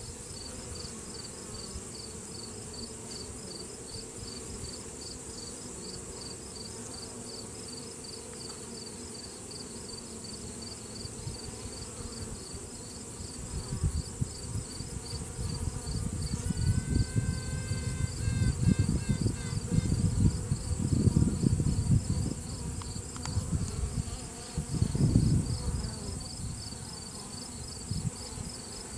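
Honey bee colony humming on the frame. About 17 s in, a virgin queen pipes: one longer held note followed by a quick series of short toots. Low rumbling handling noise rises and falls through the middle.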